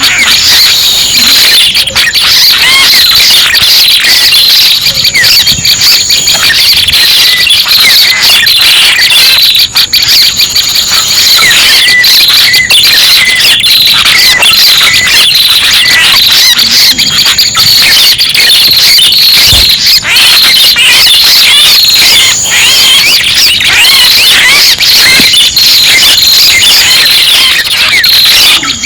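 Prenjak pala merah lure call: dense, unbroken, high-pitched chattering and chirping calls, with short higher notes repeating every few seconds, played loud as a trapping lure.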